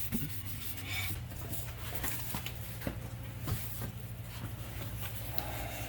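A rag rubbing over a brake rotor to wipe off grease, with a few light clicks of handling over a steady low hum.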